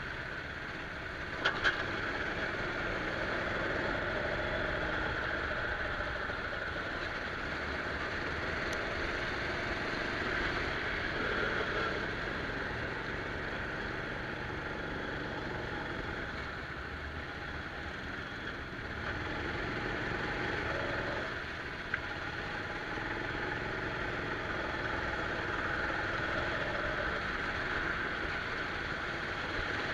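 Rental go-kart engine running on track, its pitch rising and falling as the throttle opens and closes, under a steady hiss. Two sharp clicks sound about a second and a half in.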